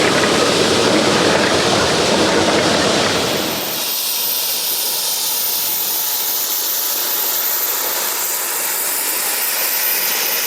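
Geared steam logging locomotive running, its low rumble falling away about three and a half seconds in and leaving a steady hiss of escaping steam.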